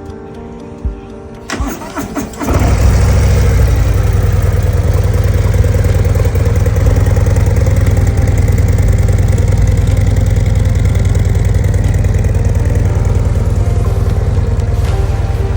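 2025 Harley-Davidson CVO Road Glide's Milwaukee-Eight 121 V-twin starting about two seconds in, then idling loud and steady with an even, low pulse.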